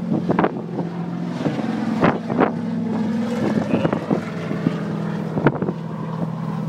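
Stock car engines running at a steady pace, a constant low drone, with several sharp bumps from wind or handling on the microphone.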